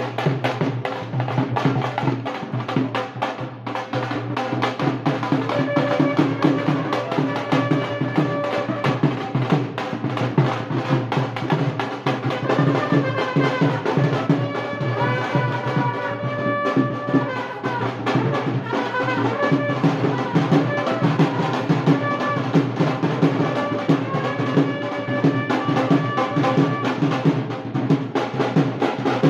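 Band music: fast, dense drumming with a wind-instrument melody that comes in about five seconds in and plays on over the drums.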